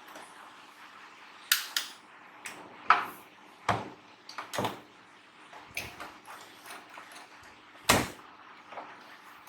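Irregular clicks and knocks of tools and small parts being handled, a few of them sharper and louder, over a faint steady hum.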